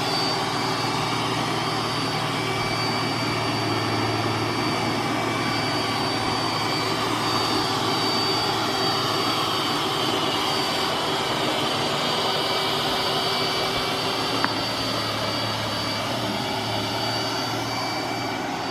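iRobot Roomba s9+ robot vacuum running on carpet at its max power setting: a steady whir with thin, constant high whining tones. A single sharp click comes about fourteen seconds in.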